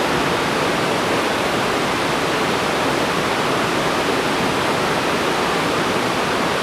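Waterfall pouring over a rock ledge: a steady rushing roar of falling water.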